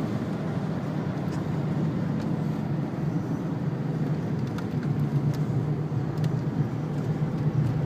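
Cabin noise of a 2-litre turbo diesel Renault Laguna wagon driving on a wet track: a steady low engine drone under an even hiss of tyre and road noise, with a few faint clicks.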